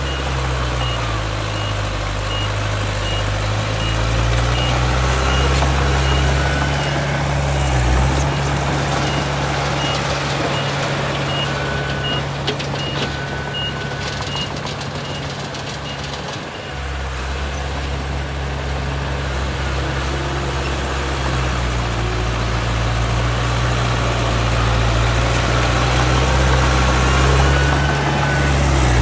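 Heavy diesel machinery running, its engine note rising and falling with load. A reversing alarm beeps in quick repetition for roughly the first half.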